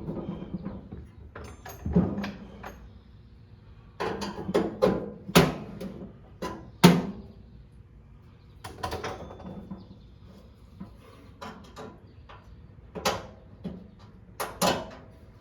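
Irregular clicks and knocks of hand tools and parts being handled during repair work, with a few louder knocks mid-way and near the end.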